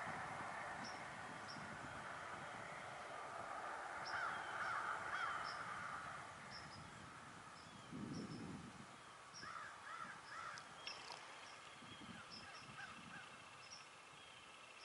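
Crows cawing, loudest about four to six seconds in.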